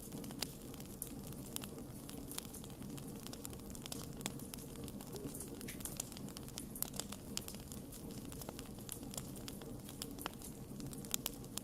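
Wood campfire crackling, with irregular sharp pops and snaps over the low, steady rumble of the burning fire.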